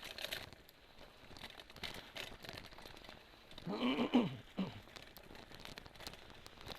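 Mountain bike rolling along a dirt forest trail: tyres crunching over soil and twigs, with scattered rattling clicks from the bike. About four seconds in, a short voice-like call rises and then falls in pitch.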